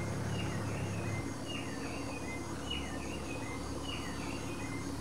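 Tropical forest ambience: a bird repeats short whistled notes that slide downward, in groups of two or three about once a second, over a steady high insect drone and a low hum.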